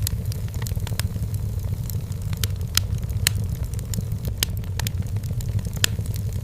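Wood fire burning in a fireplace: frequent irregular crackles and sharp pops over a steady low rumble. Two pops stand out as the loudest, about three seconds in and again near the end.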